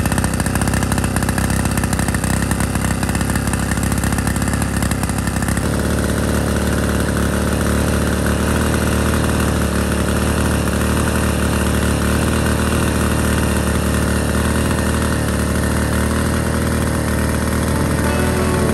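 Small diesel engine of a restored water pump running. About five and a half seconds in, its note changes and settles into a steadier, more even tone.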